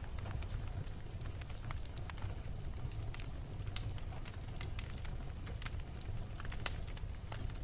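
Wood fire burning in a fireplace: a steady low rumble of flames with frequent sharp crackles and pops from the logs, irregularly spaced, one louder pop near the end.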